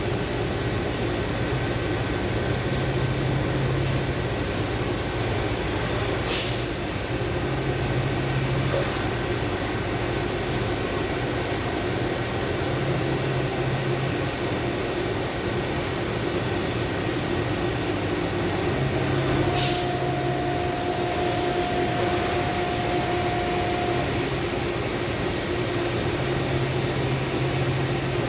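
Steady mechanical hum and hiss of a running machine such as a shop fan, with a higher steady tone for a few seconds around the middle and two brief sharp hissing clicks, about six and twenty seconds in.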